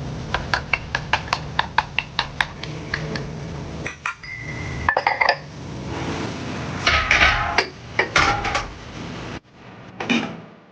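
Kitchen preparation sounds: a quick run of sharp knocks, about five a second for a couple of seconds, then irregular clattering of dishes and utensils, over a steady low hum.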